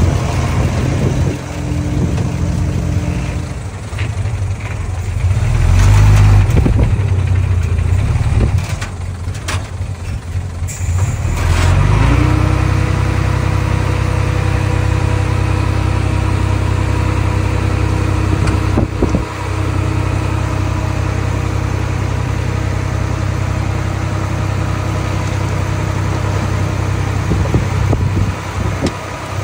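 Small bulldozer's diesel engine running, uneven with a few sharp knocks in the first part, then settling to a steady, even note from about halfway.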